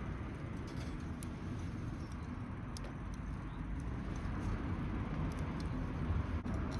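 Wood fire in a fire pit crackling faintly, with sparse light pops over a steady low rumble.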